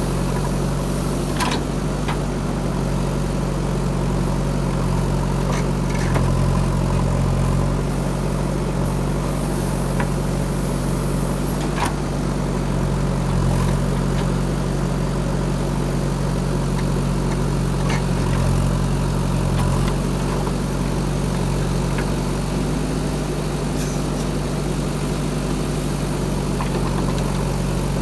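Diesel engine of a JCB 3DX backhoe loader running steadily at low revs, with a few faint clicks and knocks over it.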